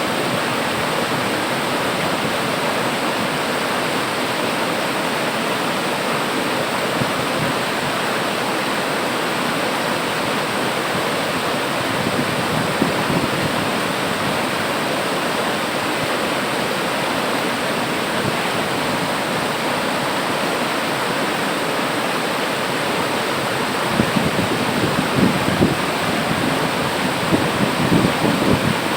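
Waterfall pouring steadily, an even dense rush of falling water, with a few heavier low surges near the end.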